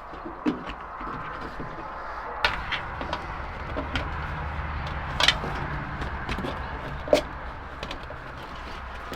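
Scattered sharp clicks and knocks of hand work on a pickup's door weather stripping, over a steady low hum that sets in about two seconds in and fades near the end.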